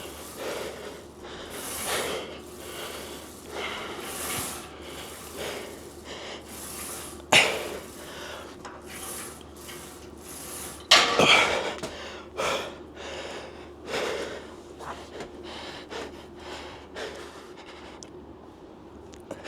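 A weightlifter breathing hard and forcefully in repeated gusts about every second, with two sharper, louder knocks, one about a third of the way in and another just past halfway.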